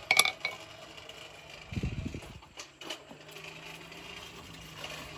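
Hammer blows on a hot steel knife blank at the anvil, ringing sharply at the start, followed by a short low rumble and a couple of lighter knocks, with a faint low steady hum underneath.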